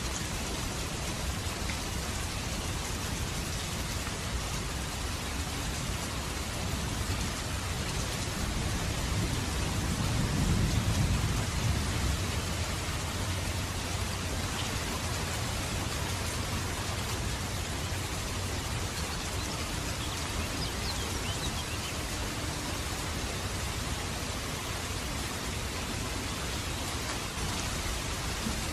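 Steady rain falling, with a low rumble of thunder swelling about ten seconds in and fading over a few seconds.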